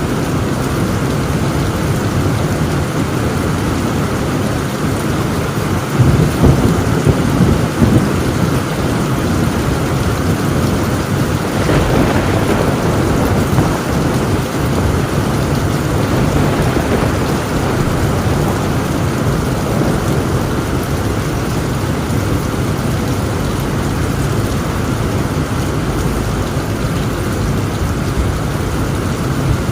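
Torrential rain drumming steadily on a tin roof, with thunder rumbling about six seconds in and a sharper thunderclap around twelve seconds in.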